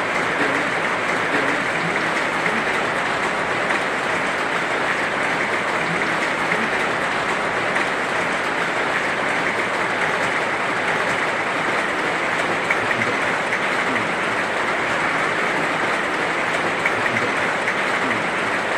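Heavy rain falling steadily, a dense, even hiss with no pauses.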